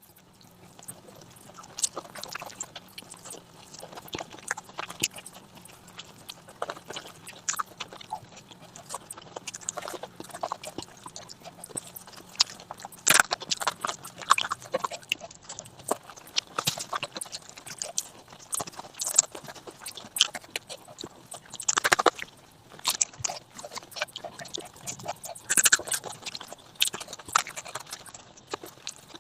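A person chewing and eating spicy fish curry with rice, close to the microphone: wet chewing, lip smacks and mouth clicks in an irregular run, with a few louder smacks.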